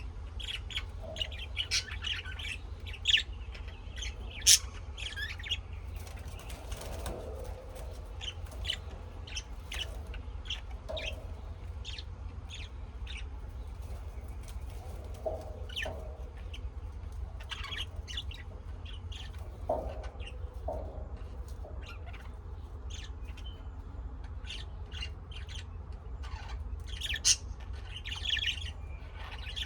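Birds chirping and squawking in many short, sharp calls, a few of them louder, over a steady low hum.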